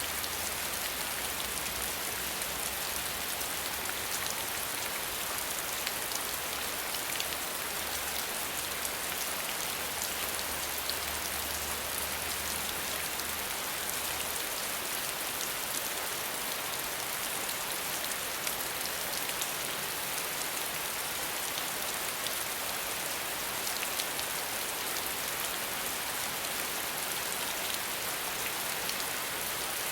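Steady rain without thunder, an even dense hiss with many fine drop ticks.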